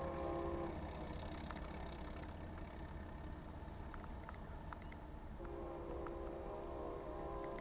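Air horn of a GE C44-9W diesel locomotive sounding a chord: one blast ends under a second in and another begins about two thirds of the way through, over the steady low rumble of the approaching locomotives.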